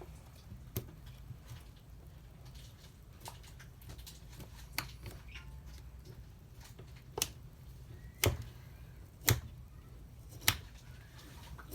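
Sharp, separate clicks and taps of small tools and parts being handled on a disassembled smartphone, six or so spread out, the loudest in the second half, over a low steady hum.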